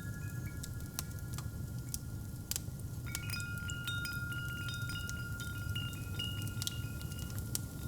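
Wind chimes ringing, with a cluster of strikes about three seconds in, over a crackling fireplace with a steady low rumble and scattered pops.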